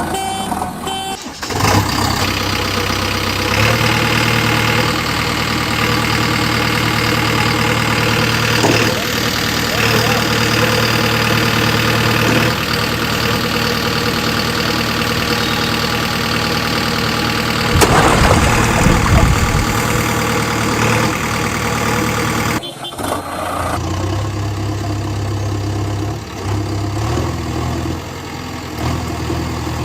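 Diesel engine of a JCB backhoe loader running steadily, with a louder noisy stretch a little past the middle and abrupt cuts near the start and about 23 seconds in.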